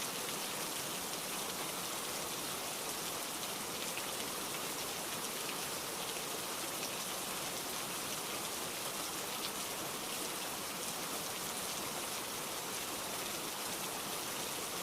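Heavy rain pouring steadily, a dense even hiss of drops striking a surface with faint individual patters.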